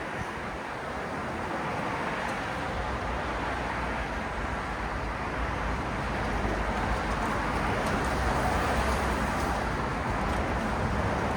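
City road traffic: a steady wash of tyre and engine noise from passing cars, slowly growing louder with a deeper rumble as traffic comes closer.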